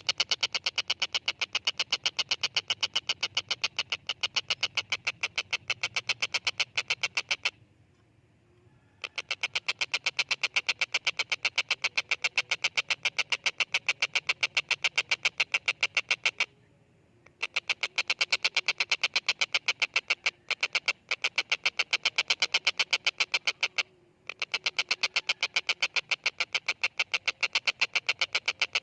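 Tengkek buto (stork-billed kingfisher) calling in long bouts of rapid rattling notes, about ten a second, with three short pauses between the bouts.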